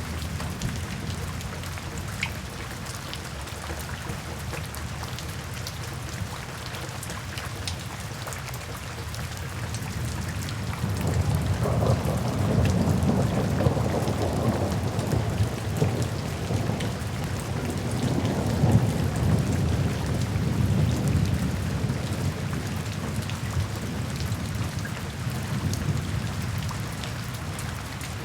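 Steady rainfall with individual drops ticking. About ten seconds in, a long low rumble of thunder swells and rolls on for around ten seconds before fading back under the rain.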